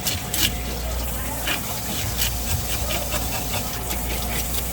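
A knife working on a fish on a cutting board while it is being cleaned: irregular sharp scrapes and taps over a steady low hum.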